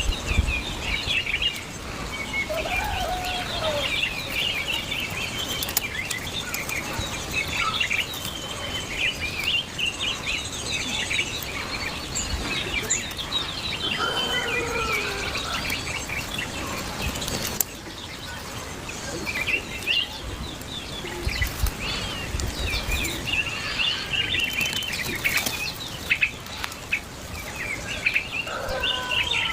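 A group of small aviary birds chirping and chattering continuously in many overlapping short calls, with now and then a lower call.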